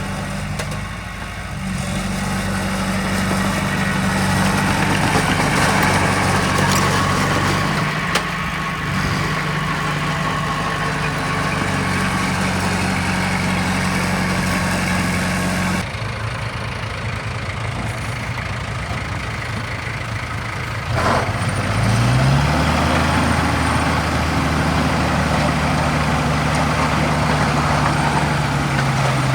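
Heavy diesel engines of earthmoving machinery running at steady speed. About halfway through the sound changes abruptly, and a few seconds later an engine revs up and holds at a higher pitch.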